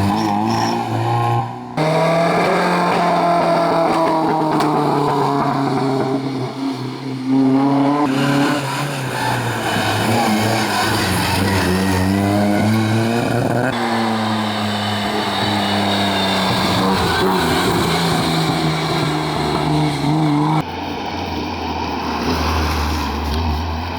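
Historic rally car engines at full throttle, several cars in turn. Each revs up, its pitch rising through the gears, then drops when the driver lifts off, with hard cuts from one car to the next.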